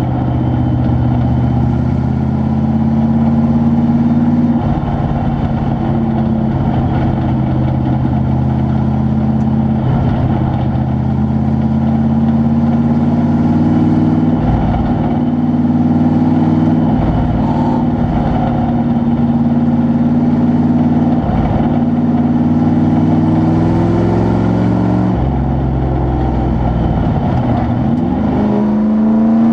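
Truck engine running steadily, its pitch shifting in steps through the gears, then rising as it revs up near the end.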